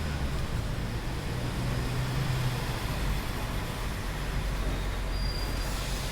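Train running with a steady low rumble and no distinct squeal.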